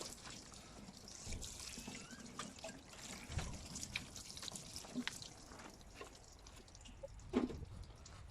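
Water dripping and trickling off a wet car headlight lens as it is rinsed and wiped clean after wet sanding, with scattered small clicks and one brief louder sound about seven seconds in.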